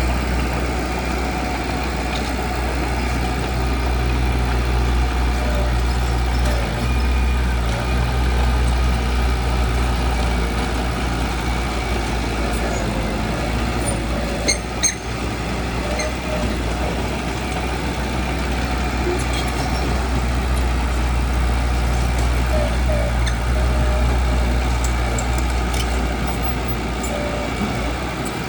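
Heavy diesel construction machinery running steadily with a deep, even engine drone. A few sharp knocks come close together about halfway through.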